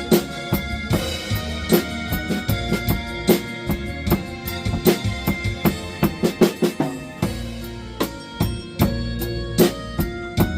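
Drum kit played over a blues backing track: bass drum, snare and cymbal strokes over steady backing notes, with a quick run of hits about six to seven seconds in.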